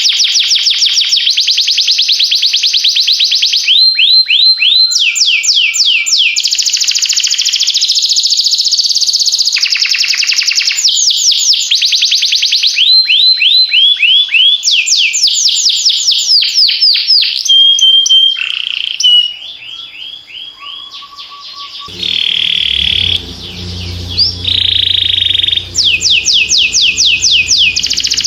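Canary singing long, fast trills of repeated down-sweeping notes, switching to a new trill every second or two, with a softer lull about two-thirds in. Near the end, low sustained background music comes in under the song.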